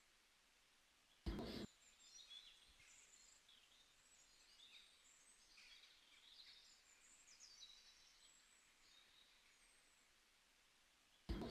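Faint songbirds chirping over quiet background noise, with two short loud thumps, one about a second in and one near the end.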